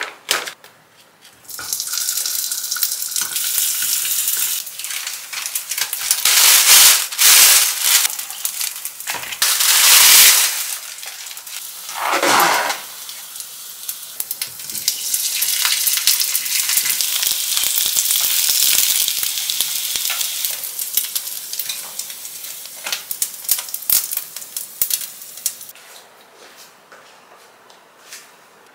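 Frozen gimmari (seaweed rolls) frying in oil in a pan: a steady sizzle, broken by a few louder bursts, fading to quieter scattered clicks near the end.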